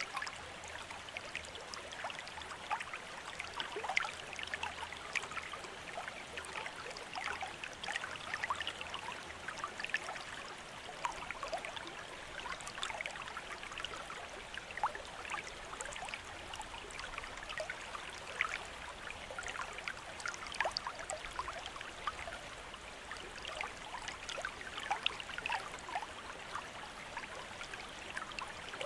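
Bamboo water fountain: water trickling and splashing steadily from the spout, with many small irregular droplet splashes.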